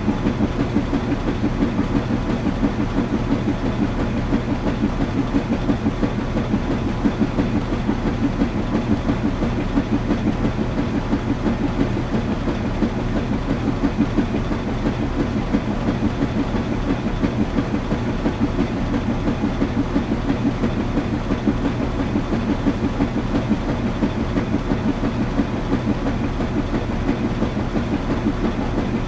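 Washing machine running: a steady low hum and rumble with a quick, even rhythmic pulse.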